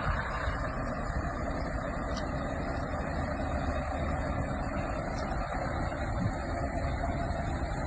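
A truck's engine running steadily at idle, a continuous low drone.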